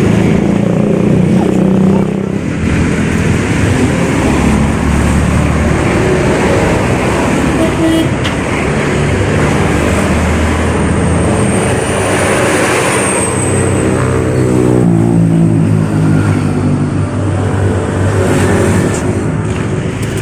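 Motor vehicle running with traffic noise, its engine note rising and falling.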